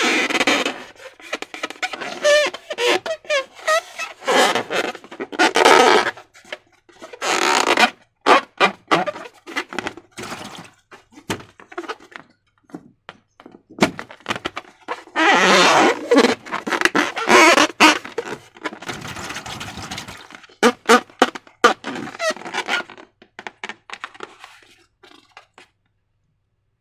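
Slime being squished and worked by hand: wet squelching in irregular bursts with short pauses, dying away near the end.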